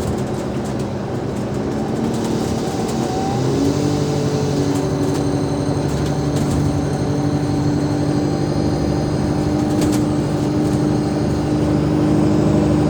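Alexander Dennis Enviro500 MMC double-decker bus heard on board, its Cummins ISL8.9 diesel engine and ZF Ecolife automatic gearbox running. A steady hum steps up in pitch about three and a half seconds in and then holds, creeping slightly higher.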